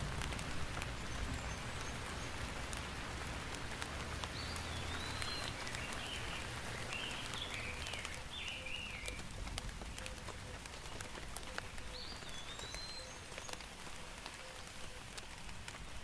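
Steady rain falling, with many small drops ticking on a surface. A bird chirps in short, wavering phrases from about four to nine seconds in and again briefly around twelve seconds.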